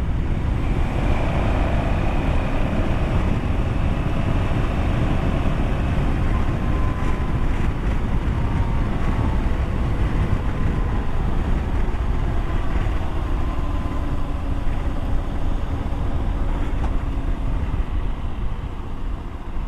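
Motorcycle engine running steadily under way, its note drifting gently up and down in pitch, under a heavy wind rumble on the microphone.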